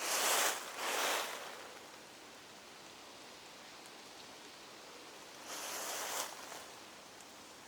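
Footsteps on the autumn forest floor, stepping through leaf litter: two steps at the start, a pause with only a faint steady hiss of the forest, then another step about five and a half seconds in.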